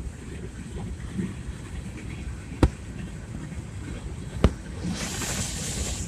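Freight train of hopper cars rolling past: a steady low rumble with two sharp clanks about two seconds apart, and a brief hiss near the end.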